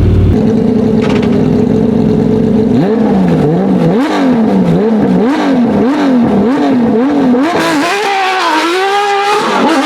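Competition car engine idling with a lumpy note, then blipped over and over from about three seconds in, the revs rising and falling roughly once every 0.7 seconds, less regularly near the end.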